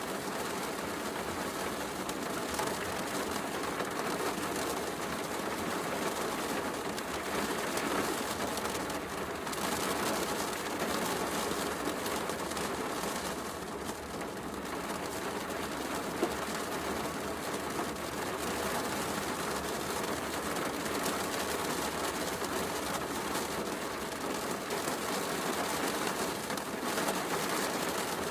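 Steady heavy rain mixed with a crackling wood fire, with one sharper pop from the fire about sixteen seconds in.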